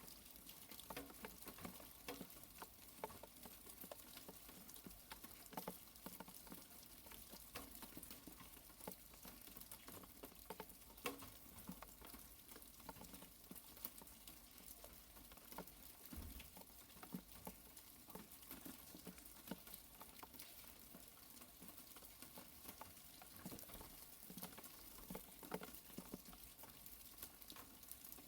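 Faint light rain pattering, with many scattered small drip ticks and a brief low thump about halfway through.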